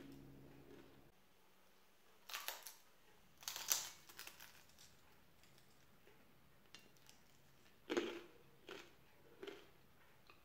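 Crunching as a crisp fried corn-tortilla turnover filled with potato and tuna is bitten and chewed: two sharp crackly crunches a couple of seconds in, then a few softer chewing sounds near the end.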